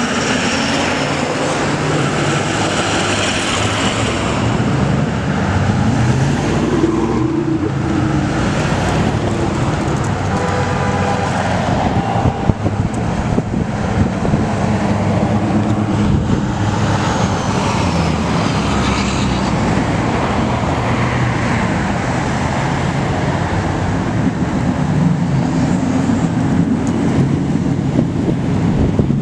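Heavy trucks' diesel engines running as a convoy passes, with steady traffic and road noise.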